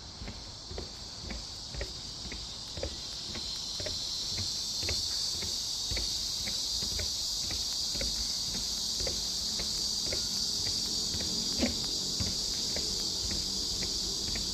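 Cicadas droning in a steady high chorus that swells during the first few seconds and then holds, over a walker's footsteps on the trail at about two steps a second.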